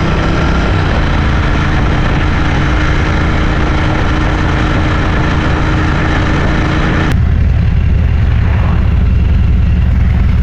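Motorcycle engine running at road speed with wind rush. About seven seconds in the sound changes abruptly to a deeper, steadier drone.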